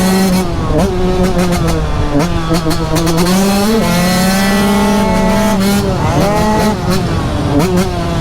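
Yamaha YZ125's single-cylinder two-stroke engine being ridden hard, revving with its pitch rising and falling several times.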